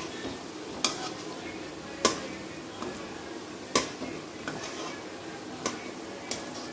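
Gulab jamun balls deep-frying in oil in an aluminium kadai, a steady sizzle, while a metal strainer spoon stirring them knocks sharply against the pan about five times.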